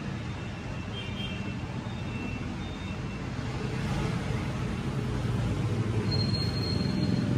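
Road traffic noise: a low engine rumble that grows louder over several seconds, with a thin high tone sounding near the end.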